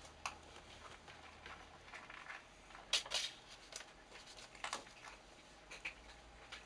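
Two cats playing: scattered faint scuffles and taps, the loudest cluster about three seconds in.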